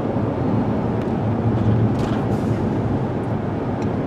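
Steady road and engine noise inside a 2016 Ford Explorer driving on the road, with a constant low hum; its freshly repaired 3.7-litre V6 is on a break-in drive to seat the new piston rings.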